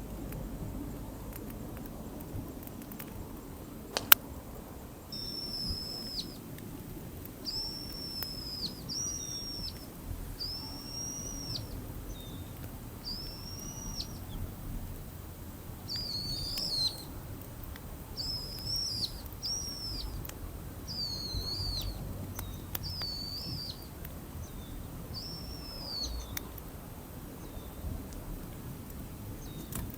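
A bird calling over and over, a run of short high whistled notes that rise and fall, about one a second, starting about five seconds in, over low steady background noise. A single sharp click about four seconds in.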